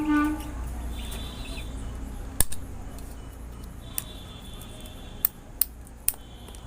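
A few sharp clicks from a plastic medicine bottle and its cap being handled and opened. A steady horn-like note stops about half a second in, and faint high chirps come and go.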